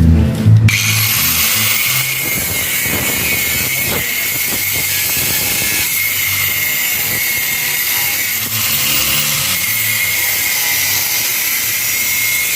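A power tool running steadily on motorcycle exhaust work, a loud hiss with a thin high whine. It starts about a second in and keeps going without a break.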